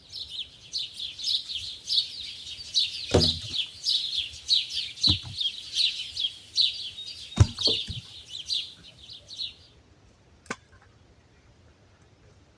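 Bird chirping in a quick, unbroken run of short high notes that stops abruptly about nine and a half seconds in, with a few low thumps beneath it.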